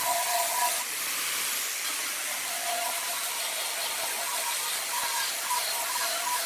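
Wood lathe running with a tool working the spinning wood: a steady hiss with a faint motor whine that comes and goes.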